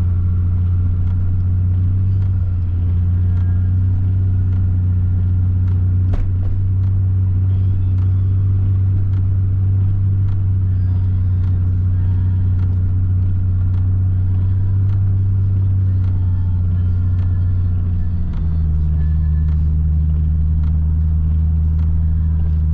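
Nissan 300ZX's V6 engine running steadily at low speed under light load; about 18 seconds in the engine note drops to a lower pitch as the revs fall.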